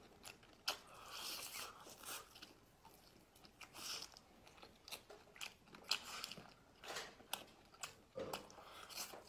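A person chewing and biting grilled chicken-thigh meat off skewers: soft, irregular smacking and clicking mouth sounds.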